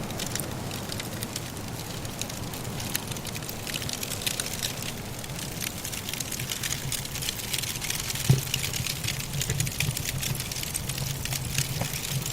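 Wood fire crackling in a fireplace: dense, quick snaps and pops over a steady low rumble, with one louder pop about eight seconds in.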